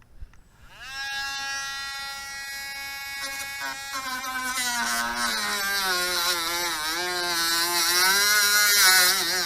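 Dremel rotary tool with a cutoff disc spinning up with a rising whine about a second in, then cutting into a cable's black plastic sheath. The whine drops and wavers in pitch under load, with a harsh grinding hiss joining about halfway, and it stops near the end.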